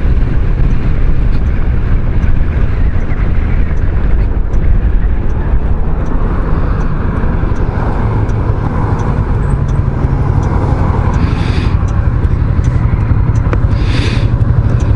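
Kymco Xciting 500 maxi-scooter riding along, its engine hum under heavy wind rumble on the microphone. Two short hisses come about eleven and fourteen seconds in.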